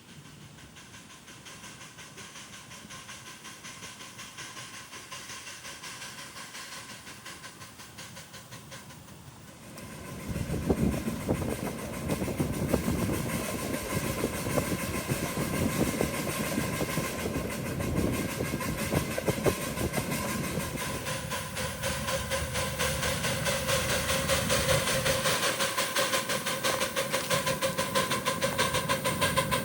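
Miniature 7.5-inch gauge train running on the track, faint at first and growing louder, then close and loud from about ten seconds in with rapid clicking and a steady hiss.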